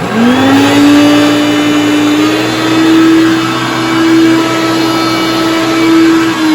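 Hoover Concept One upright vacuum cleaner switched on: the motor's whine rises in pitch as it spins up over about half a second, then runs steadily, dipping slightly in pitch near the end.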